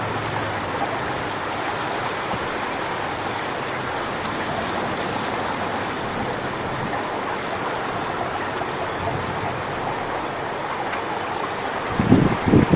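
Strong wind rushing steadily through coconut palm fronds ahead of a rainstorm. Near the end a gust buffets the microphone with a brief low rumble.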